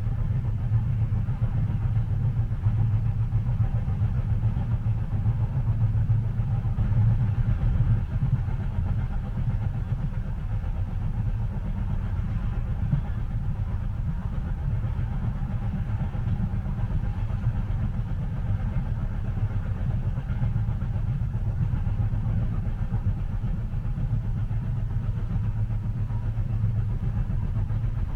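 Steady low rumble of a moving train heard from inside a passenger car, even throughout with no distinct wheel clicks.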